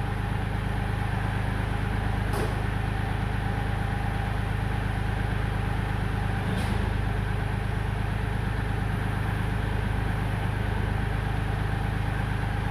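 Kioti tractor's diesel engine running steadily, with two faint clicks about two and a half and six and a half seconds in.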